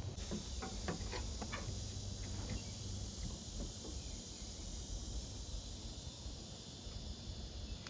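Steady high chirring of insects, crickets or similar, over a low background rumble, with a few faint light clicks in the first few seconds.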